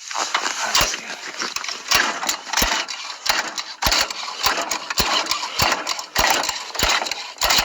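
Small gasoline engine being cranked on half choke, firing in irregular pops and sputters without catching and running steadily.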